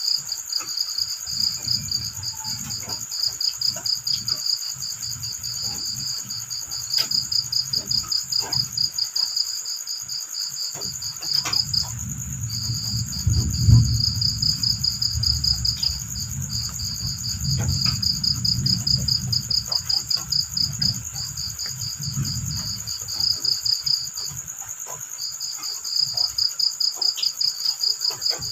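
Field crickets chirping at night in fast pulsed trills, with short breaks, over a steady higher-pitched insect buzz. A low rumble swells through the middle.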